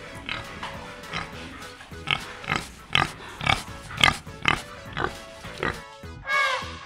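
A group of domestic pigs grunting over and over, about two grunts a second, louder in the middle. A short, higher call with a bending pitch comes near the end.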